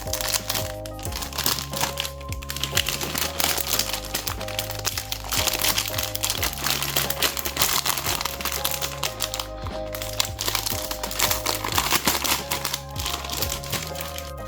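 Packaging crinkling and crackling as it is handled and opened, over background music with a steady bass line.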